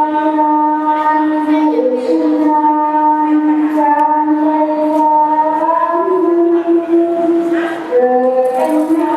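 Wind instrument music: long held notes sounding several pitches together, the chord shifting every second or two.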